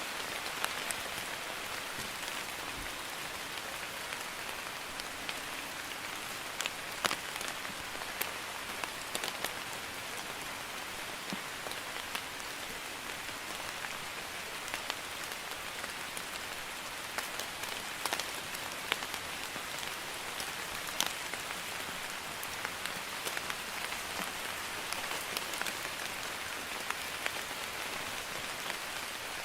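Light drizzle falling steadily: an even hiss of rain with scattered individual drops ticking sharply.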